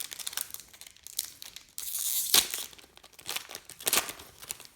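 Foil wrapper of a trading-card pack being torn open and crinkled by hand, with irregular crackling that is loudest about halfway through.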